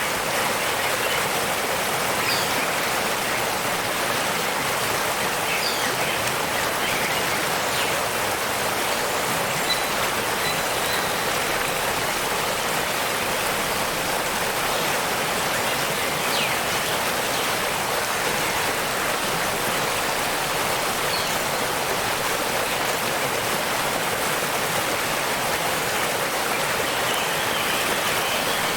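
Waterfall water rushing in a steady, even roar, with a few faint, short high chirps of birds now and then.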